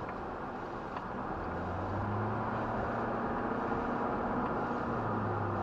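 Cabin noise of a Duramax 2500 pickup on the move: steady road and engine noise, with a low engine drone coming in about a second and a half in as the loudness rises slightly.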